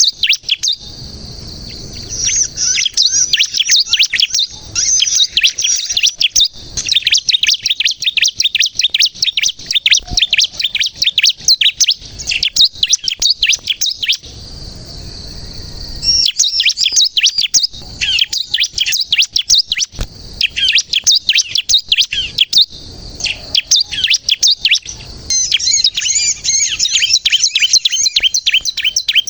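Bar-winged prinia (ciblek kristal) singing full-voiced: long runs of fast, high chirps with brief pauses between runs.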